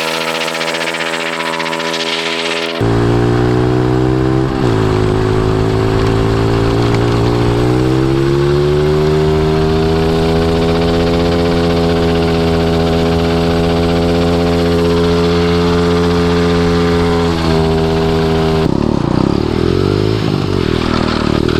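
110cc single-cylinder pit bike engine on a drift trike, running hard. Its pitch dips briefly about four seconds in, climbs again and holds steady for a long stretch, then falls to an uneven, wavering note near the end.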